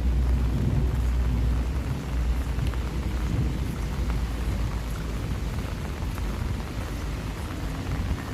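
Steady rain falling, with scattered ticks of drops, and a deep low rumble that fades away about two seconds in.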